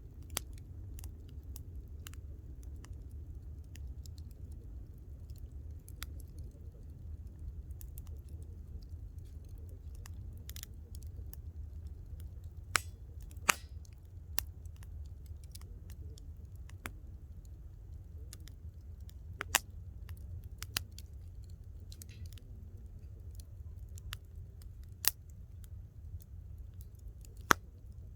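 Wood campfire crackling, with scattered small ticks and a few sharp louder pops, over a steady low rumble.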